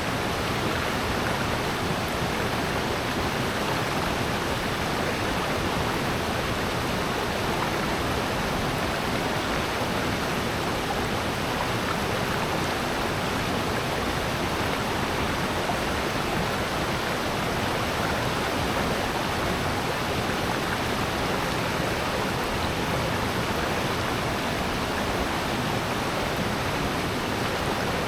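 Mountain stream and waterfall in a gorge: steady, unbroken rushing water.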